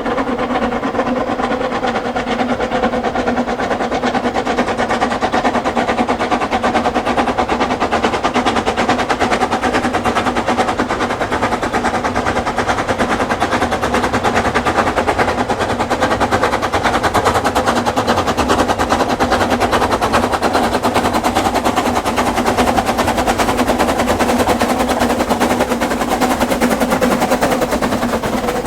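Narrow-gauge steam locomotive working a train, with a very rapid, continuous run of exhaust beats and wheel clatter and a steady tone underneath.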